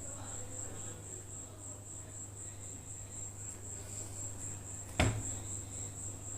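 Cricket chirping steadily in a fast, even high-pitched pulse, over a low steady hum. A single sharp knock about five seconds in.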